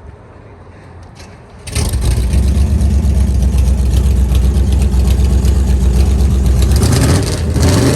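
A car engine starts about two seconds in and runs loudly with a deep, steady rumble, then revs up briefly near the end.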